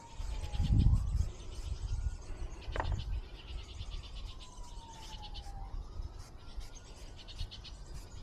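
A faint siren wailing, its pitch sliding slowly down over several seconds and then sweeping quickly back up, twice. Gusts of wind rumble on the microphone, loudest about a second in.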